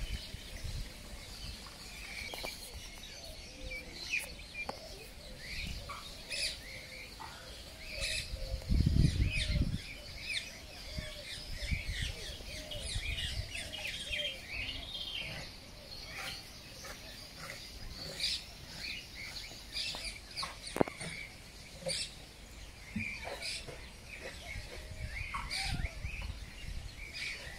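Many small birds chirping and twittering, with a brief low rumble about nine seconds in.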